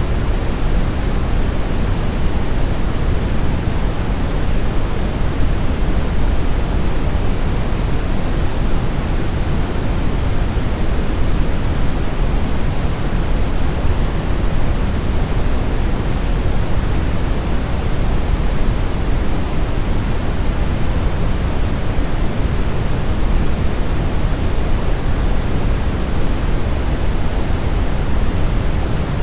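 Steady brown noise: an even, unbroken rushing hiss weighted toward the low end, deep rumble strongest and the highs faint.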